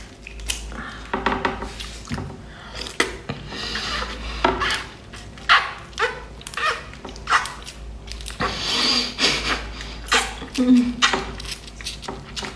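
Close-up mouth sounds of eating a spicy-sauced shrimp: sucking, slurping and wet lip-smacking, in a run of irregular smacks and clicks.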